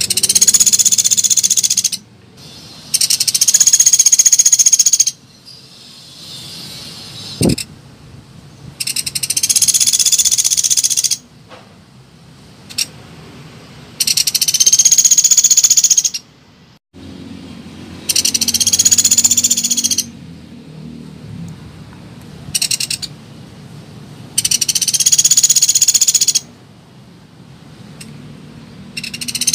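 Lure-call recording of a pelatuk beras bird: bursts of rapid, high-pitched chattering about two seconds long, repeated every three to four seconds. A faint low hum lies between the bursts, and a single thump comes about seven seconds in.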